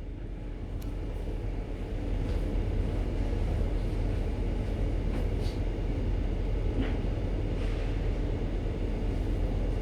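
Steady low rumble of a ship under way heard on board, its engine and machinery running. It grows slightly louder about two seconds in.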